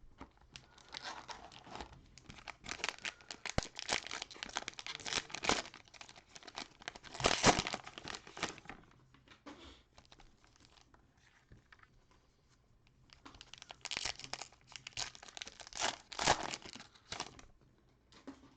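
Cellophane wrapper of a trading-card cello pack being torn open and crinkled, in two bouts of crackling with a quieter pause between.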